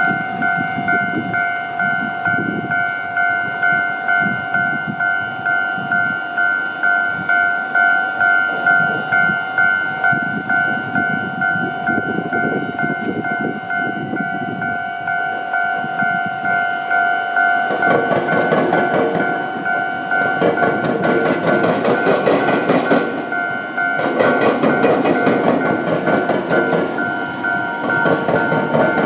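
Level-crossing warning bell ringing in a steady, evenly repeated two-tone ding. From about 18 seconds in, an Iyo Railway Takahama Line electric train passes, its wheels clattering in two long runs over the rail joints and the flat crossing with the tram track.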